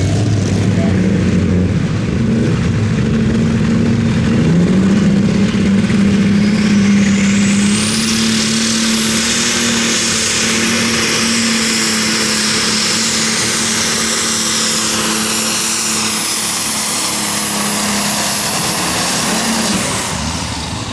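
Competition pulling tractor's engine at full throttle through a pull: the engine note climbs over the first few seconds and then holds. A high whine rises about six seconds in and stays until the engine backs off near the end.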